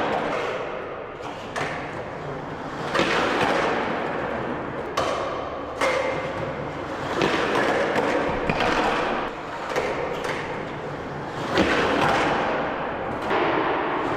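Skateboard rolling on concrete, with repeated thuds and scrapes as the board is slapped up onto a curb or ledge and slid along it in noseslides. The knocks come every second or two over the rolling noise.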